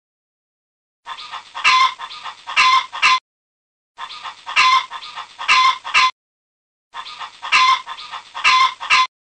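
Rooster calling: the same two-second call is played three times in a row, with short silent gaps between.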